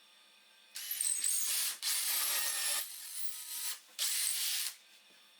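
Four scratchy rubbing strokes on wood, each about a second long, as a hole outline is traced from one piece of beech onto the other.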